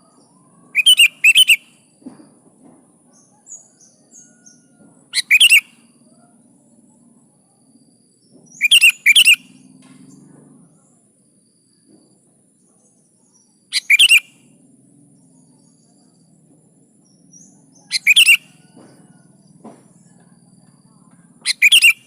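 Sooty-headed bulbul (kutilang) calling: short bursts of two or three quick, clear notes, repeated about every four seconds over a faint low hum.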